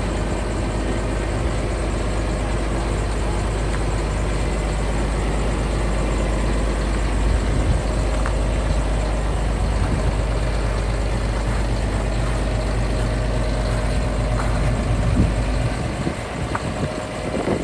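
Diesel engine of a 2011 Massey Ferguson 8680 Dyna-VT tractor idling steadily. The deep low rumble drops away near the end, leaving wind-like buffeting.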